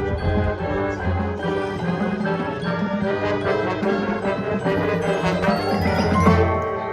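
High school marching band playing: sustained brass chords over low drums and percussion, swelling about six seconds in.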